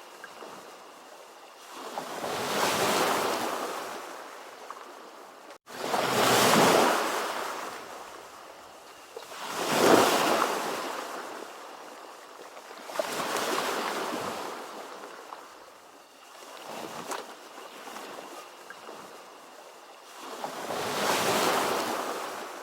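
Ocean waves: six washes of surf, each swelling and fading every three to four seconds, with a momentary dropout about five and a half seconds in.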